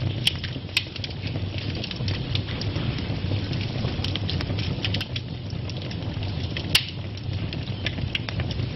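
Wood fire burning in a fireplace: a steady low rumble with scattered sharp crackles and pops, the loudest pop about two-thirds of the way through.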